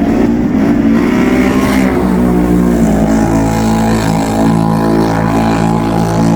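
Can-Am ATV engine running under throttle, its pitch wavering for the first few seconds and then holding steady.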